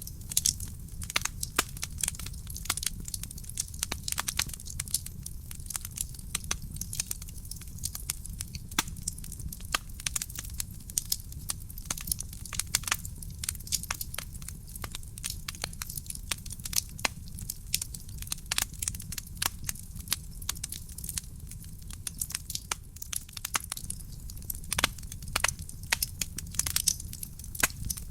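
Real wood fire burning in a fireplace, crackling with dense, irregular pops and snaps over a steady low rumble.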